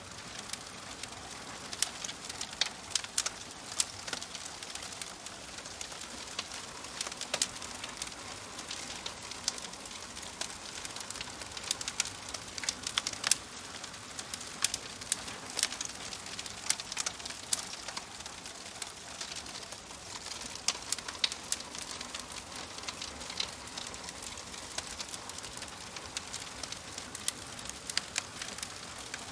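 Fire crackling in a fireplace: irregular sharp pops and snaps, several a second, over a steady soft hiss.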